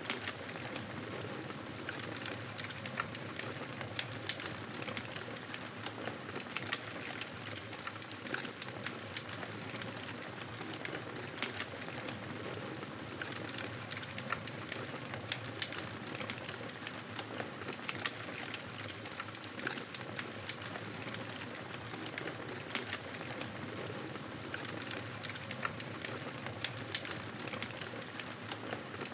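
Fire crackling in a fireplace: a steady hiss of burning with frequent irregular sharp pops and snaps.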